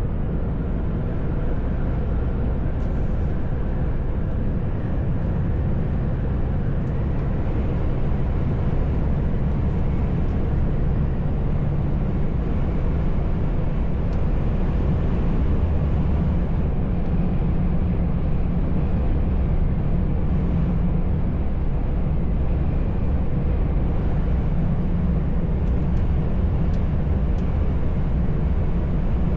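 A truck's engine and road noise as heard in the cab while driving: a steady low rumble that gets a little louder about eight seconds in.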